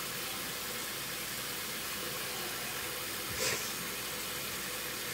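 Steady low hiss of background noise, with one brief soft rustle a little past halfway.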